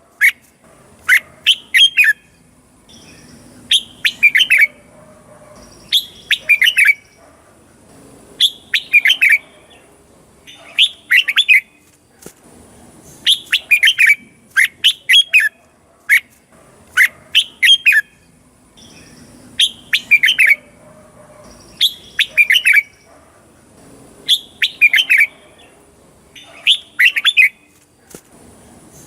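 Red-whiskered bulbul singing: short, bright, quick-noted phrases repeated about every two seconds.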